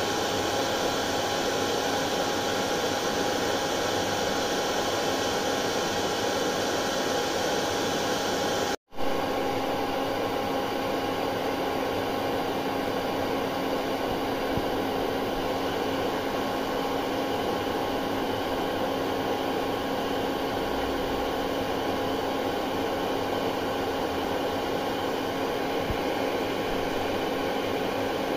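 Hair dryer running steadily: an even rushing blow with a steady motor whine. About nine seconds in it cuts out for a split second and comes straight back, with a slightly deeper hum added afterwards.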